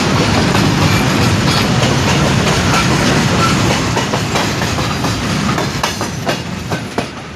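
A moving passenger train: steady rumble of coaches on the track, with a run of sharp clacks from the wheels crossing rail joints in the second half.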